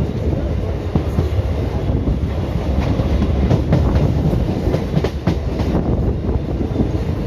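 An Indian Railways ICF coach running along the track, heard from on board: a steady low rumble of wheels and bogies, with a run of wheel clacks over rail joints in the middle.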